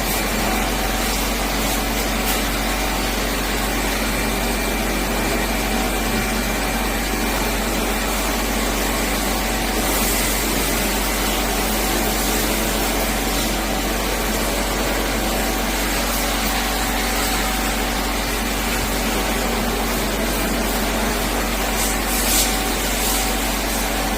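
High-pressure washer running steadily, its motor and pump humming under a constant hiss of water spray as it cleans a wall-mounted air conditioner.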